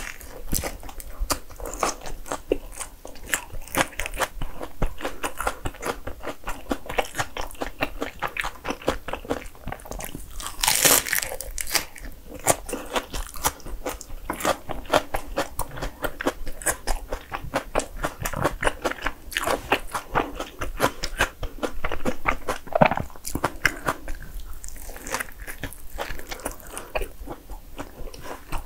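Close-miked biting and chewing of a bagel sandwich filled with lettuce, a rapid run of crisp crunches and wet mouth sounds, with a louder crunching bite about eleven seconds in.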